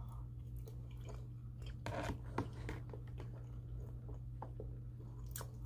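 A person chewing a mouthful of macaroni and cheese, with scattered small mouth clicks that grow a little stronger about two seconds in, over a steady low hum.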